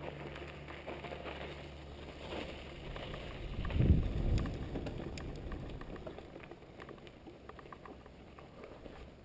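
Trek Fuel EX8 mountain bike rolling over a dirt trail: a steady noise of tyres and rattling parts, with scattered clicks and one heavy jolt about four seconds in as the bike hits a bump.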